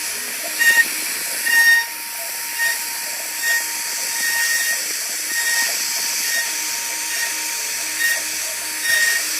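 CNC router carving wood: a steady high hiss from the spindle and cutter, over a constant tone, with short higher tones coming and going every second or so as the machine moves.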